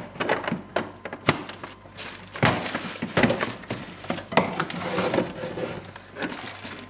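Packaged food being handled on a fridge shelf: plastic wrappers crinkling, with irregular small knocks and clicks.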